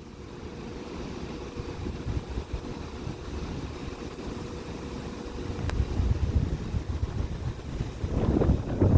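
Diesel engines of a two-unit Class 197 diesel multiple unit idling at the platform: a low rumble with a faint steady hum, and one faint click partway through. Wind buffets the microphone, growing stronger in the last few seconds.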